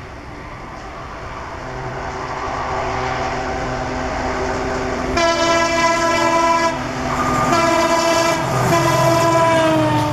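An Indian Railways ALCO diesel locomotive growing louder as it approaches, then sounding its multi-tone horn in three long blasts from about halfway through; the last blast slides down in pitch near the end.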